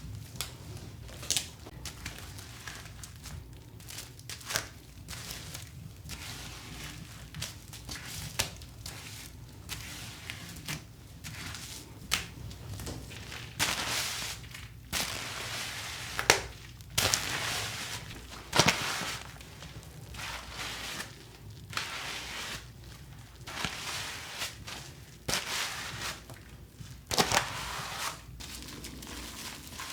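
Hands handling crinkly plastic packaging: rustling and crinkling, with scattered sharp clicks and knocks, over a steady low hum.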